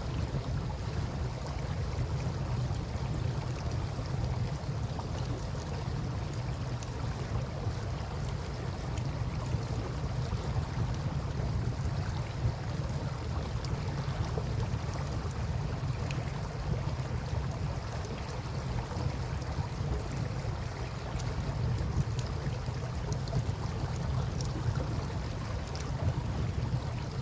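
Campfire crackling with scattered faint pops, over a steady low rush of river water.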